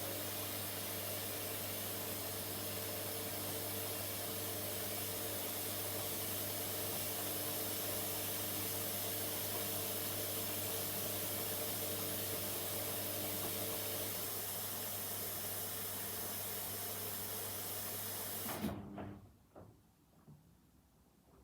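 Washing machine running with a steady rush of water and a low electrical hum. The sound cuts off suddenly with a click near the end, leaving only a few faint knocks.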